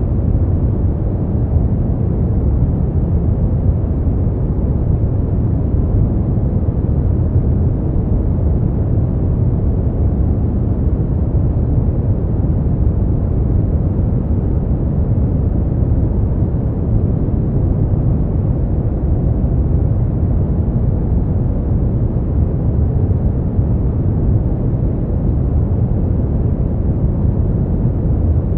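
Steady noise for sleep and relaxation, unchanging throughout: deep and rumbling, with most of its weight low and almost no high hiss.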